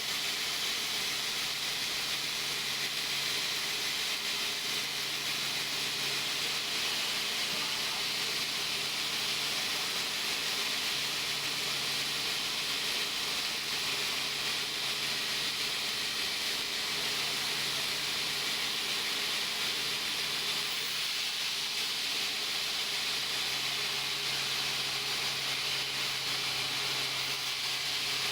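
Steady hissing machine noise with a low hum that comes and goes every few seconds.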